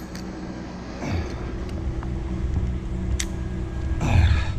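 An engine idling steadily in the background as a low hum, with a single sharp click about three seconds in and a brief rustle near the end.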